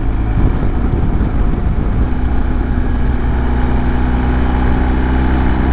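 BMW R1250 GS Adventure's boxer twin engine running under way, with wind and road noise. The engine note settles into a steady tone about two seconds in.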